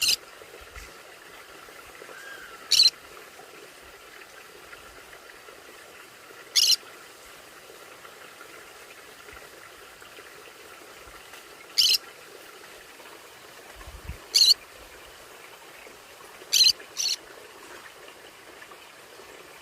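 Conure giving short, sharp high-pitched squawks, seven single calls spaced a few seconds apart, the last two in quick succession.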